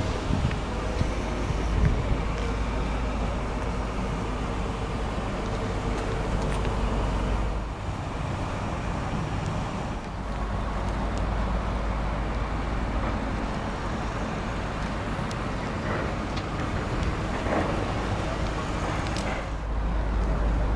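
The 4.6-litre V8 of a 1995 Ford Thunderbird LX idling steadily, heard from outside the car as a low, even rumble.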